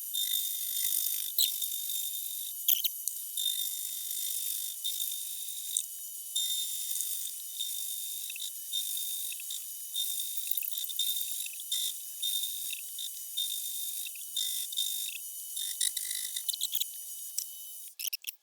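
Machine tool cutting metal: a steady high-pitched whine with irregular scratchy, clicking cutting noise over it.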